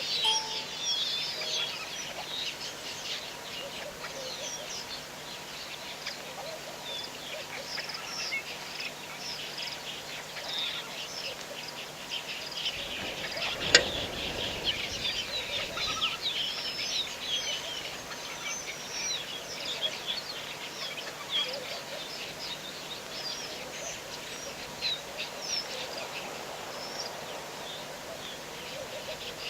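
A chorus of many small birds chirping, with dense short high calls overlapping throughout. A single sharp click about halfway through.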